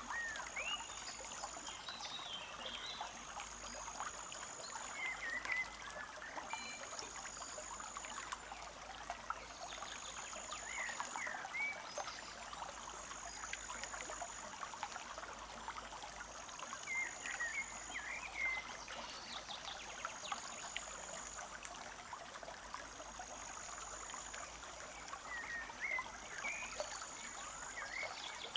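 Small forest stream trickling and babbling steadily over stones. Birds call over it: short chirps now and then, and a high thin note repeated about every two and a half seconds.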